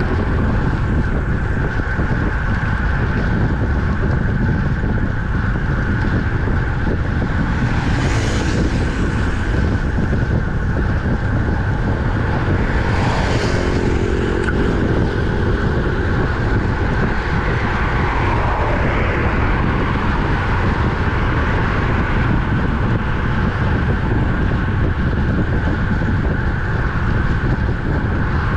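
Steady wind rush on the microphone of a moving road bike, with road and traffic noise underneath. Vehicles swell past briefly about 8 and 13 seconds in.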